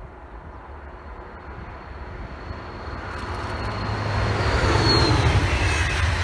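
A train approaching on the line, its rumble and rolling noise growing steadily louder until it is close about four seconds in. A thin high ringing runs ahead of it and stops about five seconds in.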